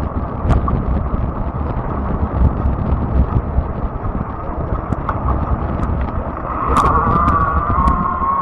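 Rumbling road and wind noise from riding a fat-tire electric bike, with scattered sharp ticks. About seven seconds in, a steady high whine joins in and holds.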